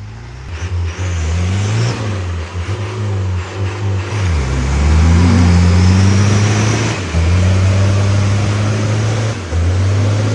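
Toyota 4x4 off-roader's engine revving hard as it attacks a mud obstacle. The engine pitch climbs and falls again and again, dipping sharply three times and picking back up.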